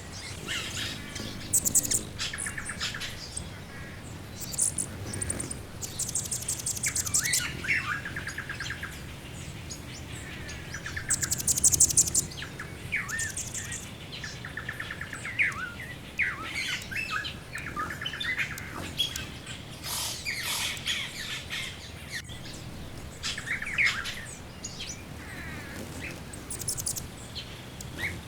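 Background chorus of several songbirds: overlapping chirps, short whistled phrases and rapid trills, some very high and thin.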